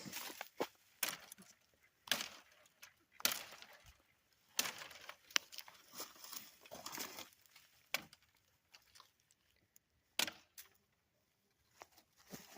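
A large folding pocket knife chopping through small oak branches and twigs: a series of sharp chopping strikes, roughly one every one to two seconds, each followed by a brief rustle of twigs.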